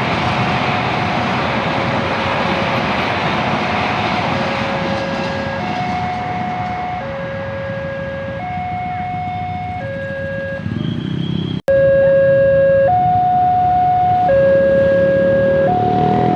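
Railway level-crossing warning alarm sounding, alternating steadily between two tones, each held about a second and a half, as the rumble of a passing train fades. A short break comes about two thirds of the way in, after which the alarm is louder.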